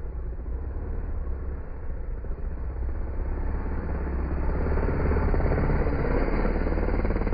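Motocross bike engine running, growing louder about halfway through.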